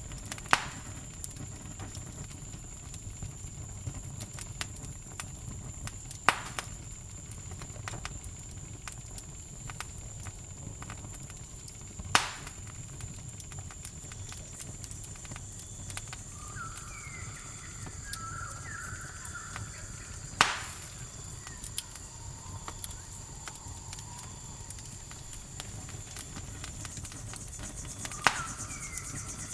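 Campfire burning with a low steady rumble and five sharp wood pops, one every six to eight seconds, over a continuous high-pitched cricket trill. A few short chirping animal calls come in past the middle and again near the end.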